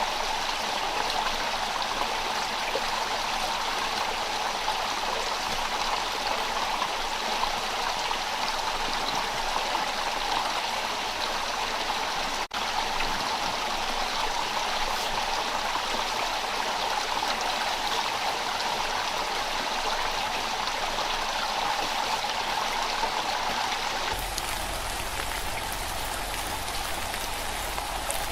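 Rainforest stream rushing over rocks: a steady, even water noise. It drops out for an instant about halfway through, and about four seconds before the end the water noise changes character, gaining a low rumble.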